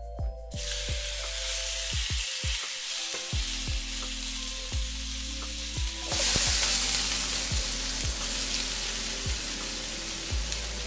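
Raw meat tipped into a hot cast-iron skillet and sizzling as it fries; the sizzle grows louder about six seconds in. Background music with a steady beat plays underneath.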